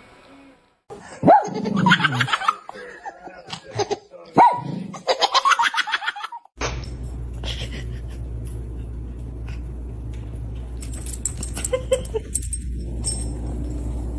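A person laughing and a dog vocalizing in bursts, cut off suddenly after about six seconds. A steady low hum with scattered clicks follows.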